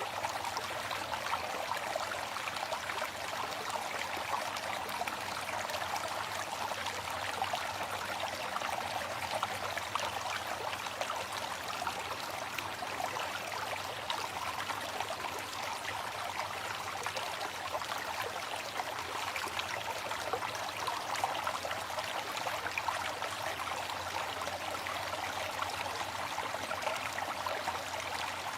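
Water falling and rushing at a waterfall, a steady, even hiss without breaks.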